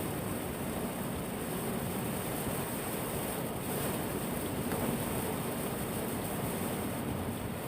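Steady rush of heavy typhoon rain, an even hiss with no single sounds standing out.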